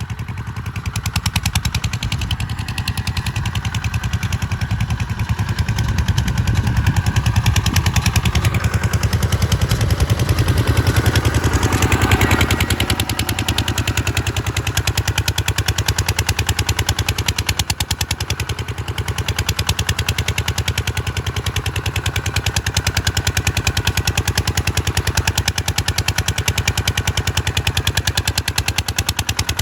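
Kubota RT140 single-cylinder diesel engine running steadily under load, a fast even chugging, growing louder for a few seconds about twelve seconds in.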